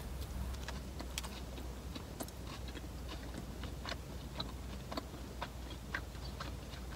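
Close-miked chewing of a mouthful of a Subway sandwich on Italian herbs and cheese bread: soft, irregular wet mouth clicks, with a faint steady low hum underneath.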